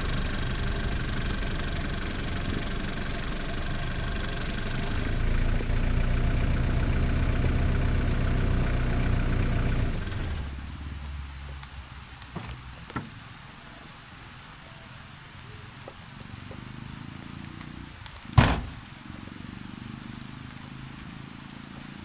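Mitsubishi Delica van's engine running steadily, then dropping away about ten seconds in. A few light clicks follow, then a single sharp bang near the end.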